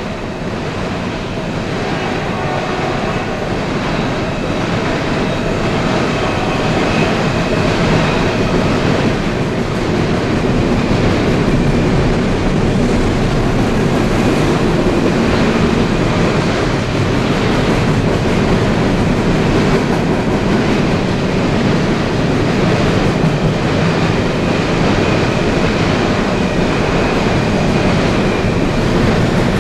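Freight train of double-stack container cars rolling past close by: a steady heavy rumble of wheels on rail with a running clack of the wheels. It grows louder over the first several seconds, then holds steady.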